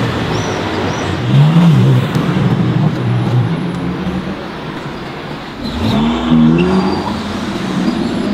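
High-performance sports car engines accelerating hard, the engine pitch climbing steeply about a second in and again around six seconds in, the two loudest moments.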